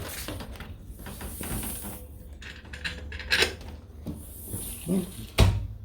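A few short knocks and clatters of household things being handled, with a heavy thump near the end.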